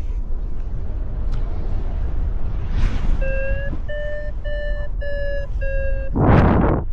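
Wind buffeting the microphone, with a paragliding variometer sounding five short, evenly spaced beeps about halfway in, its climb tone signalling rising air. A loud gust hits the microphone near the end.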